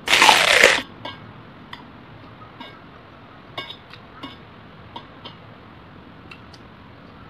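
Chopsticks clicking and tapping lightly against clear plastic takeaway sushi trays, about eight scattered light clicks, after a loud short rush of noise in the first second.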